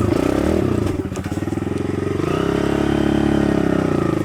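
Kawasaki KLX110 dirt bike's small single-cylinder four-stroke engine running; its pitch dips about a second in, then rises after two seconds in and holds higher as the throttle opens.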